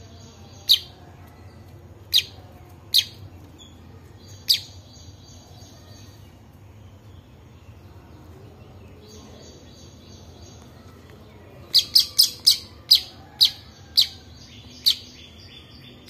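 A fledgling songbird cheeping: four short, sharp cheeps spread over the first five seconds, then a quick run of about eight from about twelve seconds in. A faint high twittering comes and goes between them.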